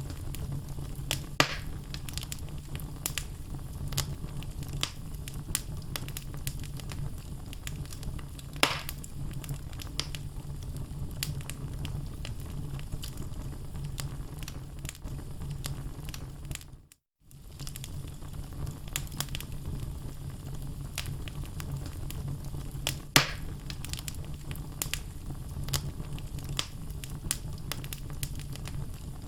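Wood logs burning in a fireplace: a steady low rumble of flames with constant crackling and a few louder pops. The sound drops out completely for a moment about halfway through.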